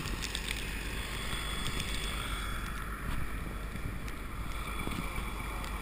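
Blizzard wind buffeting the microphone: a steady low rumble with hiss.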